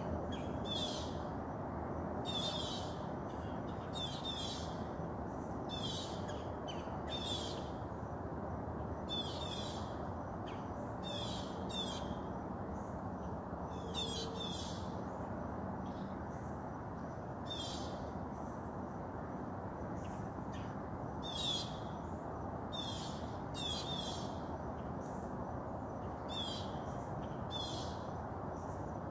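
A bird calling over and over: short, high, downward-sweeping notes every second or two, over a steady background hiss.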